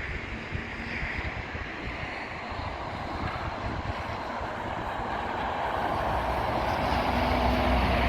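Wind gusting across a phone microphone, a steady rush with low buffeting that grows louder over the second half.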